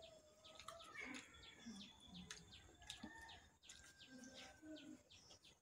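Faint close-up eating sounds: chewing and wet mouth clicks while rice and egg curry are eaten by hand, with small birds chirping in the background.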